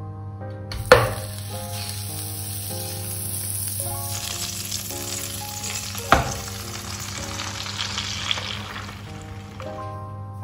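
Butter sizzling in a hot non-stick frying pan, then spaghetti with bacon and bell pepper tipped in and frying with a steady sizzle. A sharp knock about a second in as the sizzling starts, and a clunk about six seconds in as the pasta goes into the pan. Soft background music.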